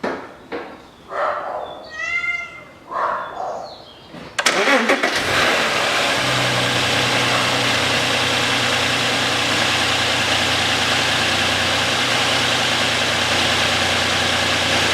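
Audi Q7's 3.6 petrol VR6 started from cold: it cranks, catches quickly about four seconds in and settles into a steady idle with no whistle yet. A few short unidentified sounds come before the start.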